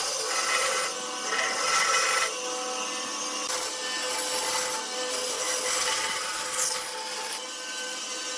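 A tool working wood, with a rasping, abrasive noise over a steady machine tone. The sound changes in stretches every second or few.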